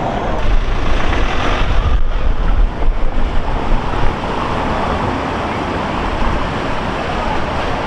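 Steady outdoor noise, with wind gusting on the microphone as an uneven low rumble from just after the start until about four seconds in, after which it settles.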